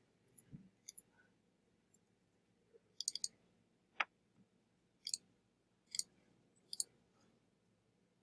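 Faint computer mouse clicks, scattered a second or so apart, with a quick run of three about three seconds in.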